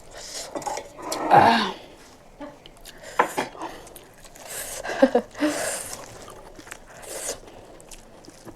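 A person eating close to the microphone: chewing with wet mouth smacks and clicks in short irregular bursts, the loudest about a second and a half in.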